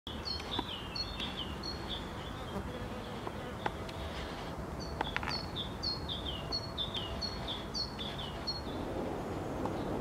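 A songbird singing two runs of quick, repeated high notes that each slide downward, with a pause between them, over a steady low background rumble.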